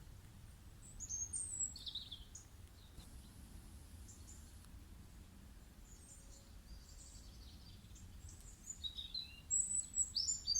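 Small birds chirping faintly, with short high chirps in two clusters, about a second in and again near the end, over a faint steady low hum.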